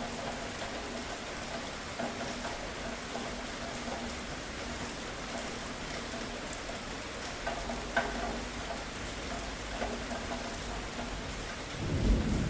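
Steady rain falling, with a few sharper drops standing out. Near the end a low rumble of thunder starts to build.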